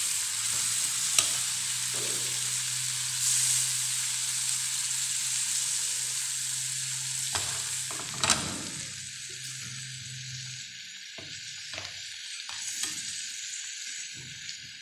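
Bitter gourd masala gravy sizzling in a frying pan while a metal spoon stirs it, with a few sharp taps and scrapes of the spoon against the pan, the loudest about 8 seconds in. The sizzle of the freshly added water in the hot masala gradually dies down.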